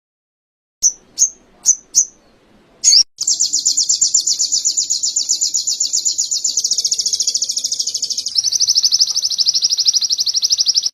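Small songbird singing in canary style: four short high chirps, then a long, fast, rolling trill that steps slightly lower in pitch partway through.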